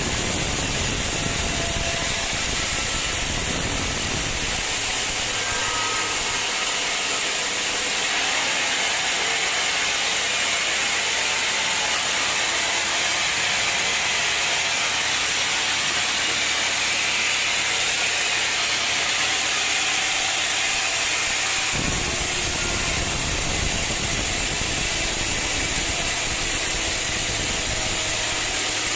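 Sawmill machinery running with a steady, loud, hissing noise. The deep rumble drops out about four seconds in and cuts back in suddenly near the two-thirds mark.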